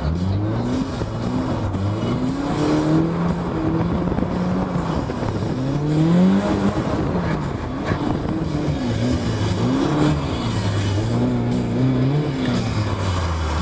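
Car engine heard from inside the cabin while the car is driven hard through tight turns, its revs rising and falling over and over.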